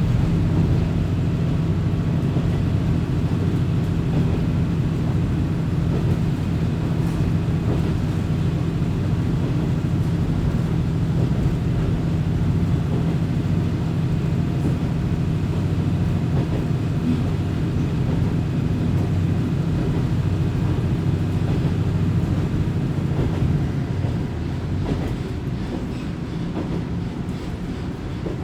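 Diesel railcar under way, heard from inside the car: a steady low engine drone under power over the rolling rumble of the wheels. It eases off a little near the end.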